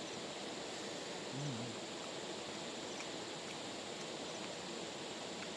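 Steady, even rushing of a big waterfall.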